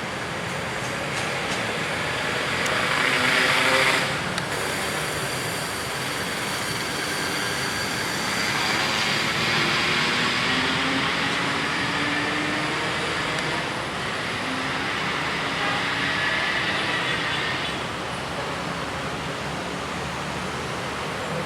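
Penataran passenger train running on the rails, a continuous rumble and rush of wheels on track that swells and eases several times.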